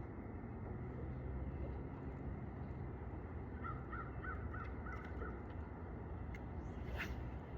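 A bird calling a quick run of about six short, evenly spaced notes in the middle, over a steady low rumble. A sharp click sounds near the end.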